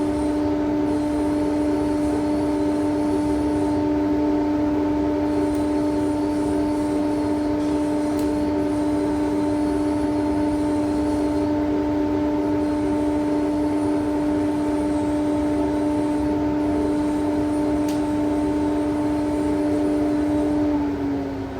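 An electric power tool motor running at a steady high speed with a constant whine. Just before the end it is switched off and spins down, its pitch falling.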